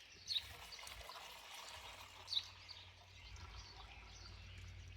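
Gasoline trickling and splashing faintly as it is poured out of a small Briggs & Stratton engine's fuel tank after being swished around to rinse out rust. Two short high chirps stand out, one near the start and one about halfway.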